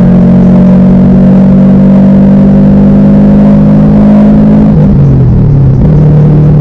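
Car engine running at steady revs, then its pitch drops about five seconds in as the revs fall and settle lower.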